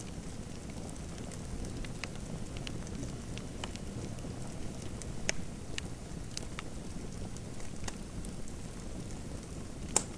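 Fireplace fire crackling: a steady low rush with scattered sharp pops, one louder pop near the end.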